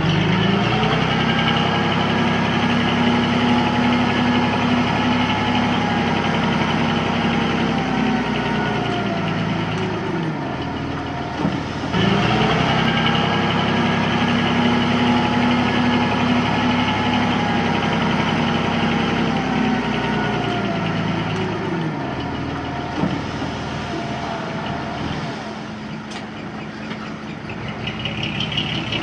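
Heavy-machine diesel engine running hard at high revs, the revs slowly sagging under load. About 12 s in they jump straight back up, sag again, and drop to a lower, steadier speed after about 22 s.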